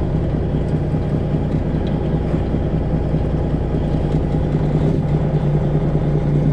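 Semi truck's 12.7-litre Detroit Diesel engine running steadily at low revs.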